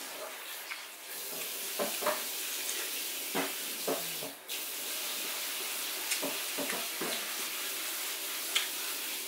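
Biting and chewing a juicy watermelon slice: wet mouth smacks and crunches every second or so, over a steady hiss.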